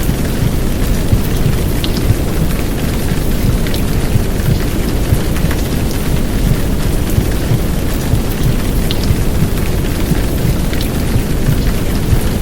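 Heavy downpour of rain: a dense, steady hiss of rain with a deep rumbling underlayer and scattered sharp drop ticks.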